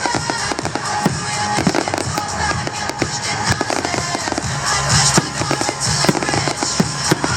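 Fireworks going off in rapid succession, a dense run of bangs and crackling cracks, over loud show music playing through loudspeakers.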